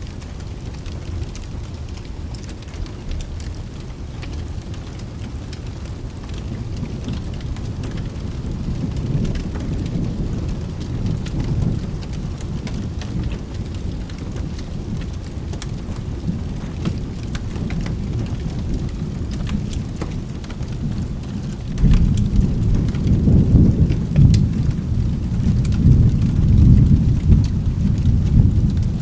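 Steady rain with rolling thunder: a low rumble swells about a third of the way in, then a louder roll of thunder breaks in suddenly near the end and keeps rumbling. Scattered small ticks sit over the rain.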